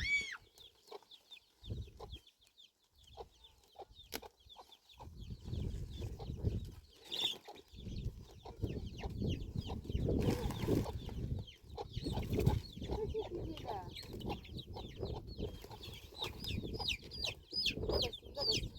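Chickens clucking and chirping, with many short high calls repeating throughout over a low rumbling noise; a single sharp click about four seconds in.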